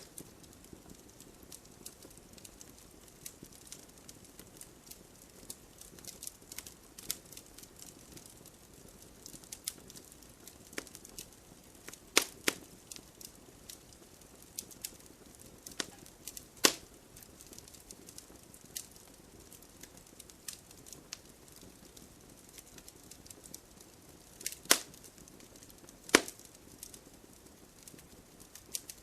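Wood fire burning in a fireplace: a low steady hiss with frequent small crackles and four louder sharp pops, about 12, 16, 24 and 26 seconds in.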